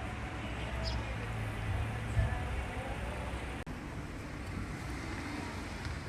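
Steady low rumble of a car driving on the road, with a brief dropout about three and a half seconds in.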